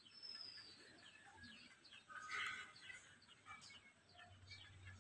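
Near silence with faint birds chirping: scattered short high chirps, a thin falling whistle about a second in and a slightly louder call near the middle.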